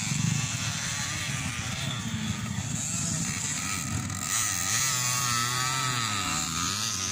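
Motocross bike engines revving, their pitch rising and falling as the throttle opens and closes.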